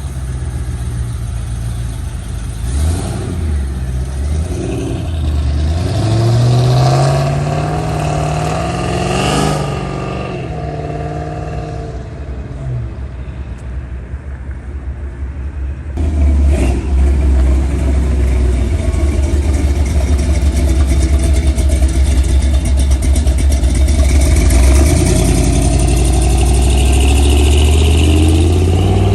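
Performance cars accelerating hard away one after another, engine pitch rising as they rev up and fading as they pull off. About halfway in, a loud deep exhaust rumble starts suddenly and keeps on, revving higher near the end.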